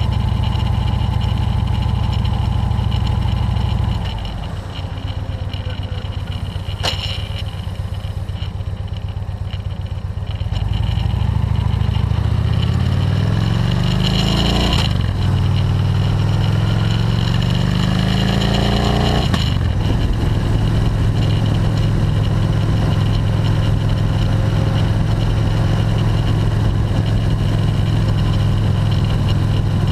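Air-cooled motorcycle engine running steadily, then easing off a few seconds in. Around the middle it accelerates with a rising pitch, broken twice by a drop in pitch as it shifts up, then settles into a steady cruise. There is a single sharp click in the quieter stretch.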